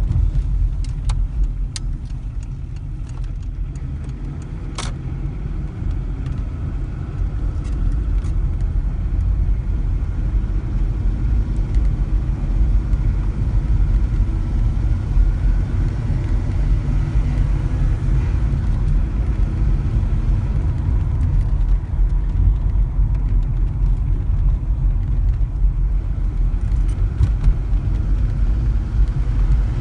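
Volvo 940 diesel heard from inside the cabin while driving: a steady low engine and road rumble that grows gradually louder as the revs build, with a few sharp clicks in the first five seconds. The revs are near the point where the car's strange vibration noise appears, right on the gear change.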